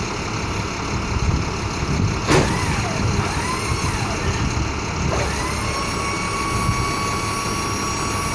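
A box truck's engine idling steadily. About two seconds in, a high-pitched squeal begins, wavering up and down in pitch. About five seconds in it gives way to a steady high whine that holds to the end.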